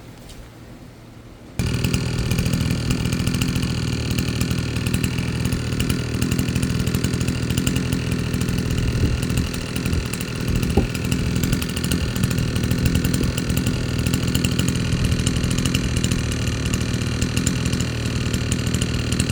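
Chainsaw engine running steadily at a constant pitch; it cuts in suddenly about a second and a half in.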